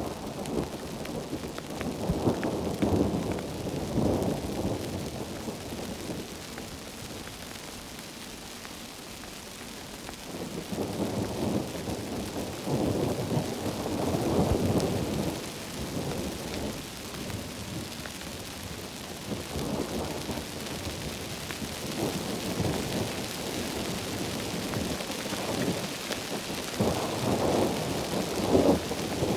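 Heavy rain falling steadily in a thunderstorm, with rumbles of thunder that swell and fade several times.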